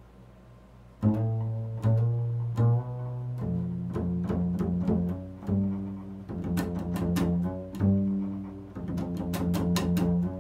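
Bass playing a slow improvised line of sustained low notes, often two sounding together, built around the interval of a second; it starts about a second in.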